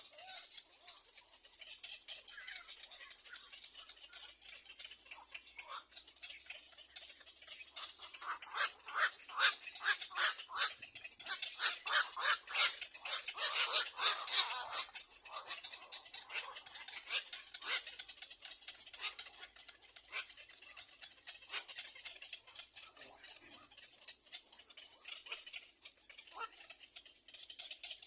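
Little egret nestlings at the nest calling in a rapid, clicking chatter. The chatter builds to a loud, dense run in the middle and thins out toward the end.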